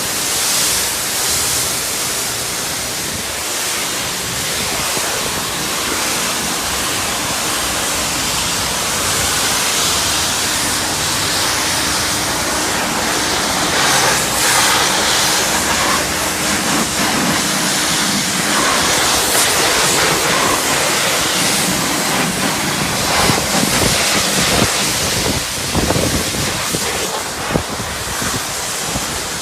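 High-pressure spray wand at a self-service car wash spraying the car with a steady, loud hiss, rising and falling a little as the jet moves over the bodywork.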